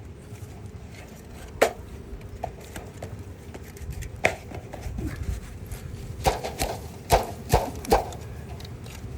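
A few sharp, separate knocks and taps, three of them close together near the end, over a low uneven rumble.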